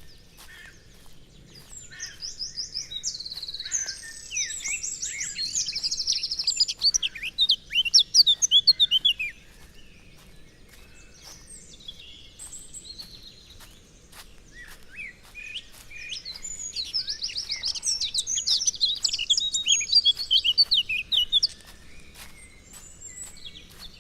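A songbird singing two long, fast phrases of rapid trills and quick falling chirps, the first ending with its loudest notes, with a pause of several seconds between them.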